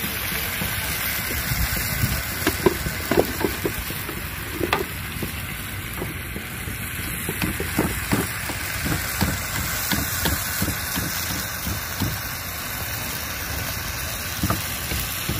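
A pot of hilsa fish curry frying and sizzling over a wood fire, with irregular knocks and scrapes from the stirring spoon. A low steady rumble runs underneath.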